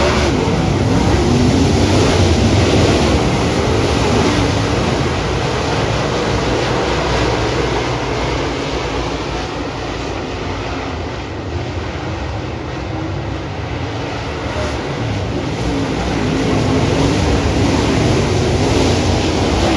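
A field of V8 dirt-track race cars at racing speed around the oval, their engines making a loud, continuous drone that eases off a little about halfway through and then builds again as the pack comes back around.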